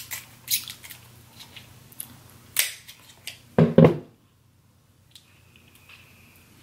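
Close-up mukbang eating sounds: sharp wet clicks and smacks of chewing seafood in butter sauce, with a louder, lower mouth noise about three and a half seconds in. The last two seconds are nearly quiet.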